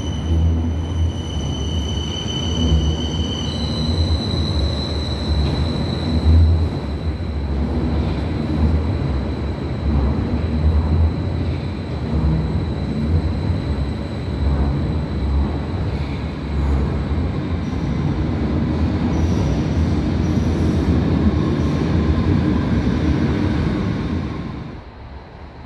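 Berlin U-Bahn type JK train running on the track: a steady rumble with uneven low pulsing. A high steady whine jumps up in pitch a few seconds in, and the sound drops off sharply about a second before the end.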